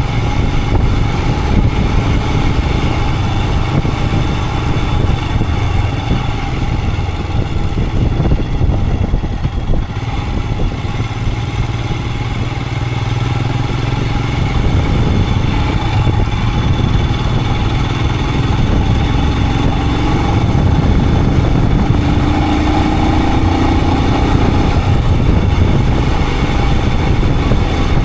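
Royal Enfield Himalayan 411's single-cylinder engine running steadily under way, easing off briefly about a third of the way in, then the engine note climbing a little past the two-thirds mark.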